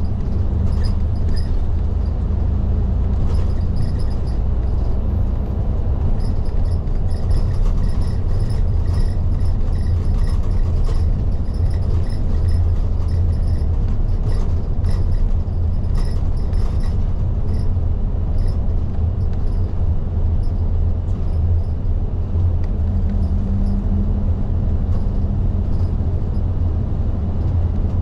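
Isuzu Erga hybrid city bus driving at steady speed, heard from inside near the front: a continuous low engine and road rumble with light scattered rattles.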